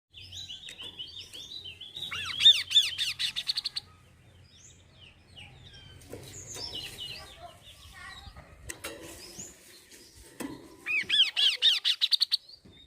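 Kaso-kaso bird song: fast runs of sharp, arching chirps come in two loud bursts, one at the start and one near the end, with scattered softer calls between them.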